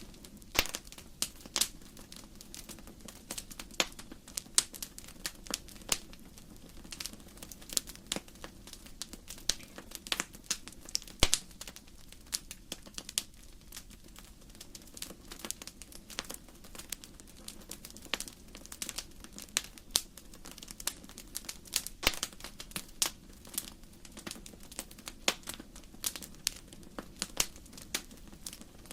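Firewood burning in a fireplace, crackling: irregular sharp snaps and pops, some much louder than the rest, over a low steady rush of the fire.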